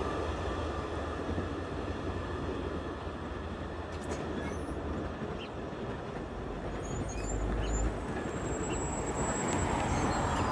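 Amtrak passenger train rolling past on the rails: a steady rumble of wheels and cars, quieter than the loud moment just before, rising a little near the end.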